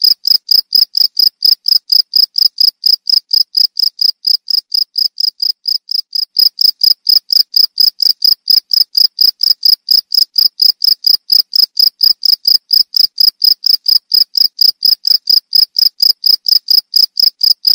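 Cricket chirping in a steady, even rhythm of about five short, high-pitched chirps a second.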